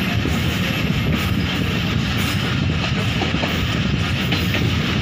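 Passenger train coach running at speed: a steady rumble and rush of wheels on rail, with a few faint clicks.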